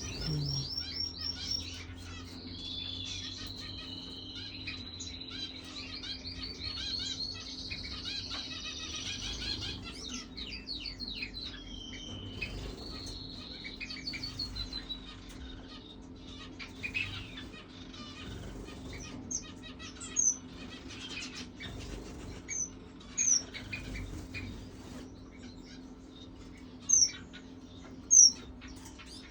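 Small birds chirping and twittering continuously, over a steady low hum. From about twenty seconds in, single sharp high chirps stand out every second or two.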